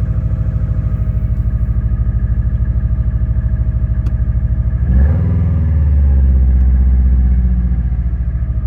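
A 2003 Subaru WRX's turbocharged flat-four runs at high cold-start idle with an even pulsing beat, shaking a little in the cold. About five seconds in the engine note rises briefly and the sound swells louder and deeper, then slowly eases back.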